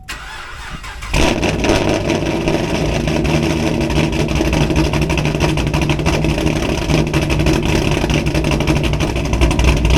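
Camaro's LS3 V8 cranked by the starter for about a second, catching and then running loud and steady at idle, with a brief swell near the end that fits an unprompted rev spike: the engine is surging by itself, part of a misfire problem that has not thrown a code.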